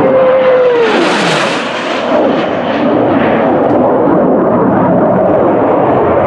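Airplane making a loud, low pass overhead: a tone in its engine noise drops steeply in pitch as it goes by about a second in, followed by continuous engine noise.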